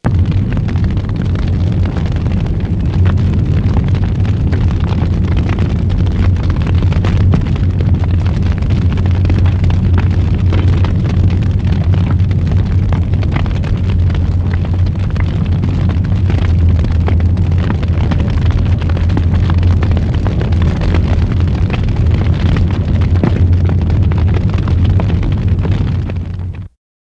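Fire burning hard: a loud, deep steady rumble with dense crackling and popping over it, starting abruptly and cutting off suddenly near the end.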